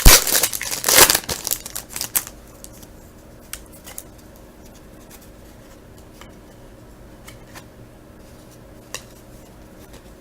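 A foil trading-card pack wrapper being torn open and crinkled for about two seconds, followed by a few faint clicks from handling the cards.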